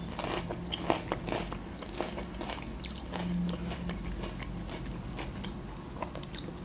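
Close-miked chewing of grilled chicken, with many small wet clicks and smacks of the mouth. Later the chicken is torn apart by hand.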